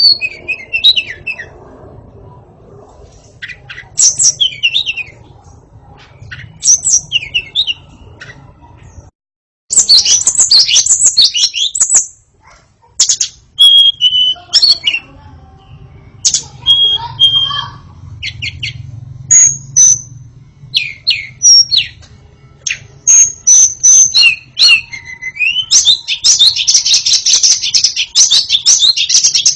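White-rumped shama (murai batu) singing: loud, varied whistled phrases and quick chattering notes. There is a brief break about a third of the way in, and a dense run of rapid chatter near the end.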